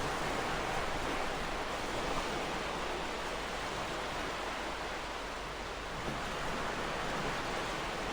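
Ocean waves washing on a shore: a steady hiss of surf that eases slightly about five seconds in and swells again.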